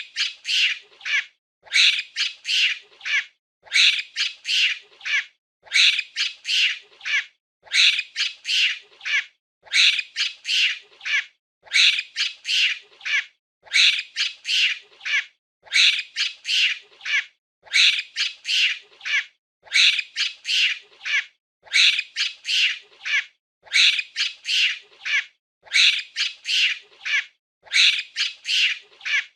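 Monkey calls: clusters of three or four short, high-pitched chattering calls, repeating evenly about every two seconds.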